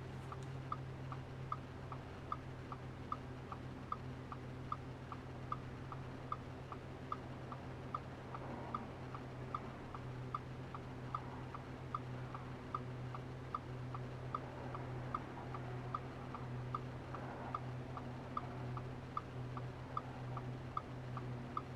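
Audi RS5's 4.2-litre V8 with a Capristo exhaust idling with a steady low hum, while the indicator relay ticks evenly, a louder click about every three-quarters of a second.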